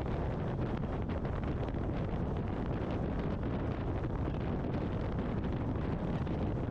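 Steady wind rush buffeting a helmet com-unit microphone while riding a BMW R 1250 GS Adventure motorcycle, with the motorcycle's engine and road noise underneath.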